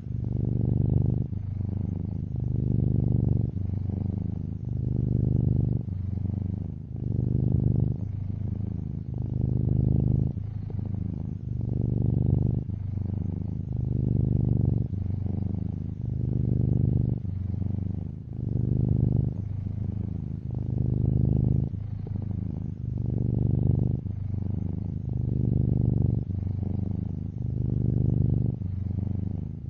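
Domestic cat purring, a low steady buzz that swells and eases in an even rhythm about every second or two.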